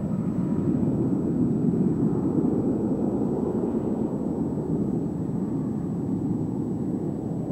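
Boeing 737-800's CFM56-7B turbofan engines at takeoff power, heard as a steady low rumble.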